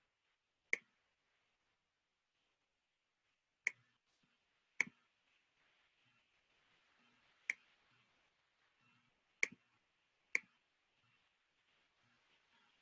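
About six sharp computer mouse clicks, spaced irregularly a second to a few seconds apart, over faint room noise.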